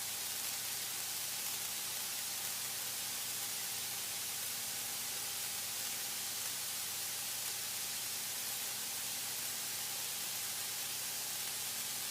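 Steady static hiss from the cockpit intercom audio feed, with a faint low hum beneath it.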